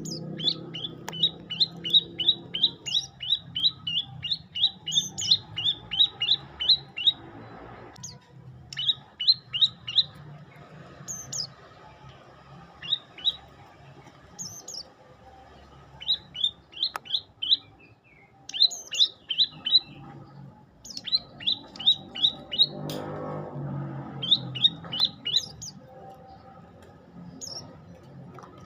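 Prenjak lumut songbird singing: fast strings of short, sharp chirps, several notes a second, in repeated bursts broken by short pauses, with a few higher notes mixed in.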